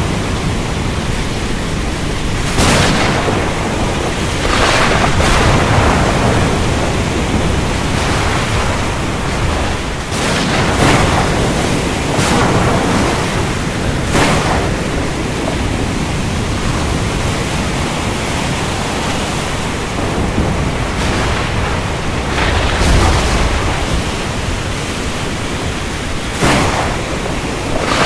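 Thunderstorm over the ocean: steady heavy rain and surf noise, with rumbling thunder swelling several times.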